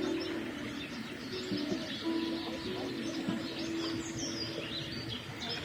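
Small birds chirping and singing over a steady background hiss, with a low steady tone held for about three seconds in the middle.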